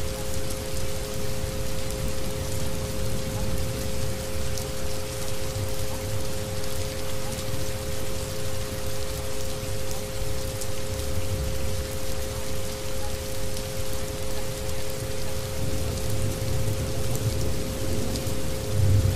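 Steady rain, with two steady tones close together in pitch laid over it. The loudness pulses evenly throughout: isochronic tones in a rain soundscape.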